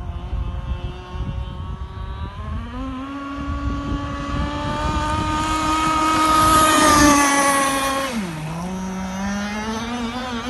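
RC Dragcat racing boat's RCMK two-stroke petrol engine with a JB exhaust running at speed. The engine note rises about two and a half seconds in and climbs slowly to its loudest, with added rushing hiss, about seven seconds in. It then drops sharply just after eight seconds and climbs again toward the end.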